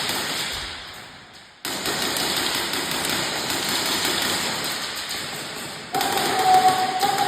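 Airsoft guns firing in rapid full-auto strings, heard in edited clips: the sound fades, cuts in again suddenly about a second and a half in, and changes abruptly again near the end, where a steady tone joins it.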